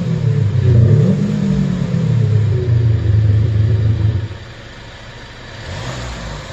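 Kia Sportage QL's V-Sonic virtual exhaust sound system playing a synthetic exhaust note that rises and falls with the revs, then holds steady. About four seconds in it drops off to a quieter rumble with small swells.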